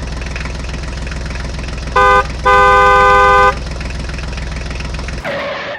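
Tractor engine running steadily, with its horn honked twice: a short toot, then a longer blast about a second long. The engine sound stops near the end.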